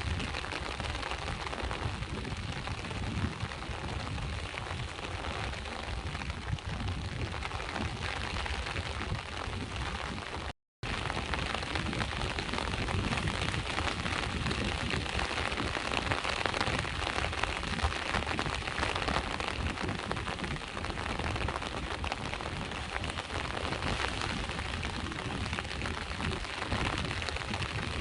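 Steady rain falling, mixed with the low wash of sea waves. The sound cuts out completely for a split second about ten seconds in and resumes with a brighter rain hiss.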